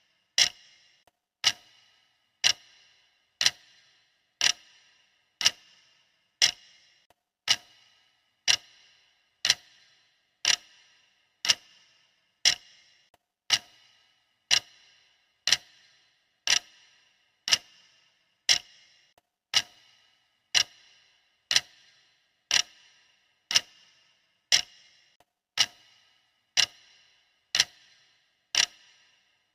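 Clock ticking steadily, about one sharp tick a second, each with a short ring after it.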